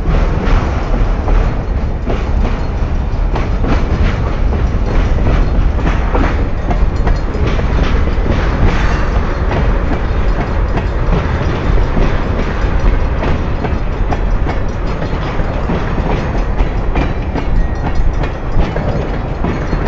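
Freight cars rolling past at close range: steel wheels on rail making a steady low rumble, with frequent clicks and clacks as the wheel sets cross the rail joints. The passing cars are an autorack, a covered hopper and a long string of tank cars.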